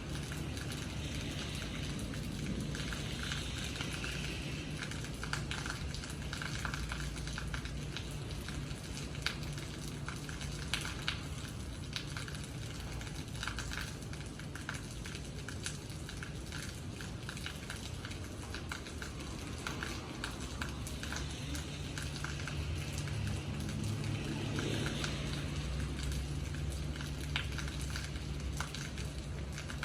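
Steady rain falling, with a dense run of small drop ticks over a constant hiss and a low steady rumble underneath.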